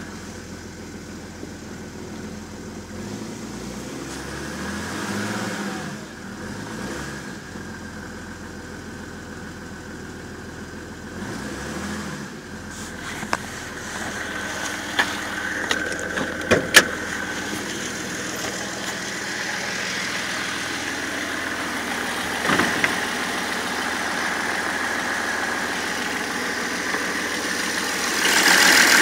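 BMW 330d's six-cylinder diesel engine running, with a few sharp knocks partway through. The owner hears a knocking sound from it since the main and EGR thermostats were replaced.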